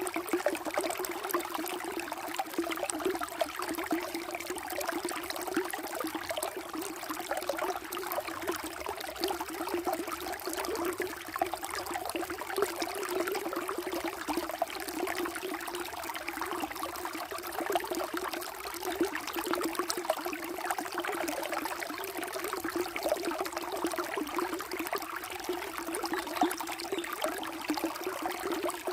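Water flowing and trickling steadily, with a constant rushing hiss and small irregular splashes.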